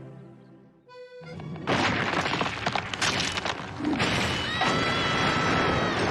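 Heavily distorted cartoon soundtrack from an audio-effects edit: a brief beep about a second in, then a loud, noisy crashing and smashing mix with sharp hits, with held musical tones coming in over it about four seconds in.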